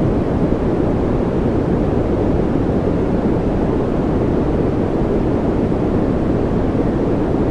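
A steady, even wash of noise for focus and relaxation, mostly deep with little hiss at the top and no change or rhythm.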